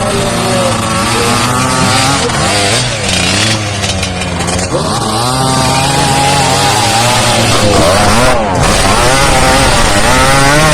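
Off-road competition engines revving hard, their pitch rising and falling again and again, with a high buzzing note like a small high-revving motor.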